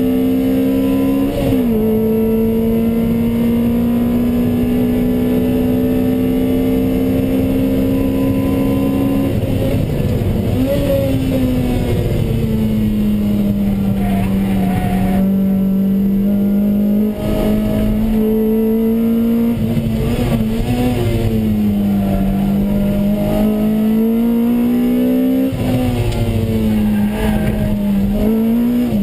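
Lotus Exige's Toyota 1.8-litre four-cylinder engine, heard from inside the cabin, driven hard on a race track. There is a quick upshift about a second and a half in, then a long pull rising in pitch. Near ten seconds the throttle is lifted sharply, with short blips on the downshifts, and the second half is a run of rises and falls in pitch through corners.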